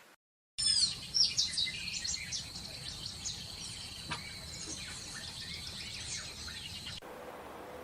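A chorus of songbirds chirping and whistling over a steady high-pitched trill and a low outdoor hiss. It starts abruptly after a short moment of dead silence, and the chorus cuts off suddenly near the end, leaving a quieter background.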